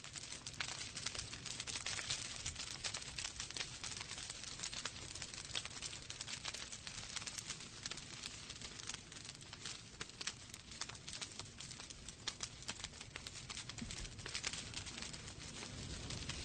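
Logs burning in a fireplace, crackling continuously: many quick snaps and pops over a soft hiss of the fire.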